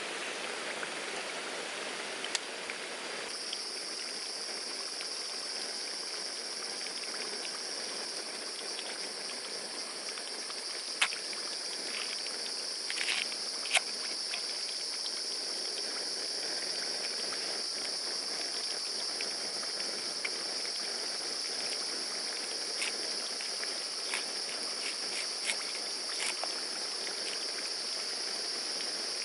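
Forest ambience: a steady rushing hiss like a stream, with a high, even insect buzz that sets in about three seconds in and holds. A few sharp clicks and knocks come near the middle.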